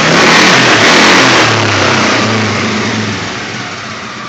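The single-cylinder engine of a 2008 Polaris 400 Sportsman HO ATV is revved hard, then falls back toward idle over about three seconds, its pitch dropping as it slows.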